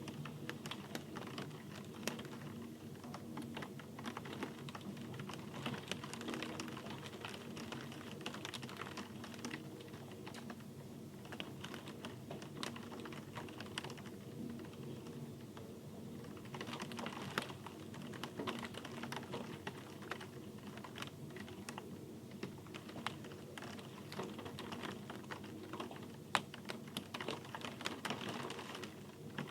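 Rain falling steadily: a dense, irregular patter of individual drops ticking over a constant hiss, briefly heavier a couple of times.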